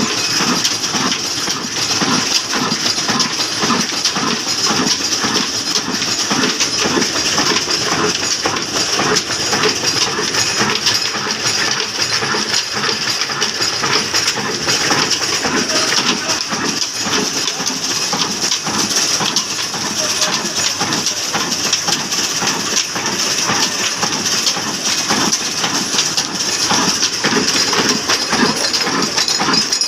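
Large old diesel engine running steadily with a continuous mechanical clatter.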